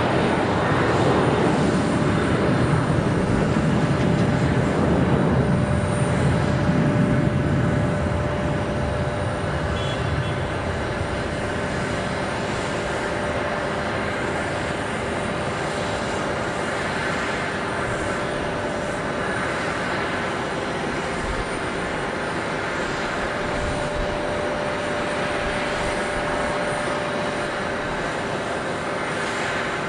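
Jet airliner engines passing: loudest and sinking in pitch over the first several seconds, then settling into a steady rumble with a held whine.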